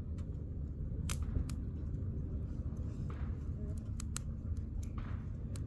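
Wood fire burning in a campfire, with scattered sharp crackles and pops over a low steady rumble.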